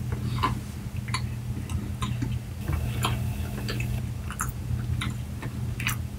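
A person chewing a mouthful of soft cheesecake close to the microphone: short, irregular wet mouth clicks and smacks about every half second to second, over a steady low hum.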